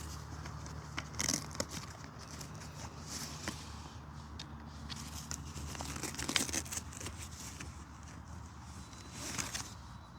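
Rustling and crinkling of a bag and gear being handled as a drone is taken out, with scattered short clicks and knocks.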